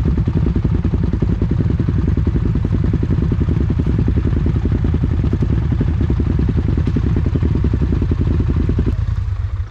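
Four-wheeler (ATV) engine running steadily under way, a fast even chugging that stops abruptly near the end.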